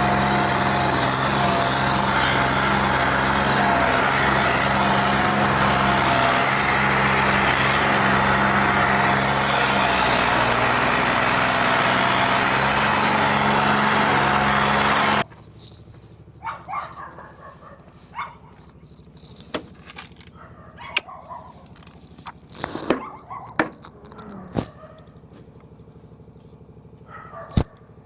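Tractor diesel engine running loud and steady, cutting off abruptly about halfway through. After that it is quiet, with scattered short sharp sounds, among them a dog barking.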